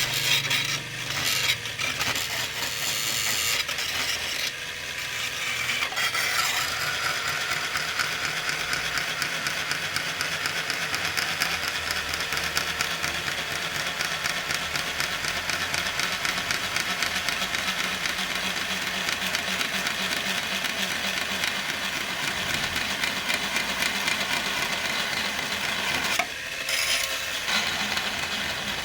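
Angle grinder cutting through plastic: a steady, harsh grinding hiss over the motor's whine. The cut briefly eases about 26 seconds in, then resumes.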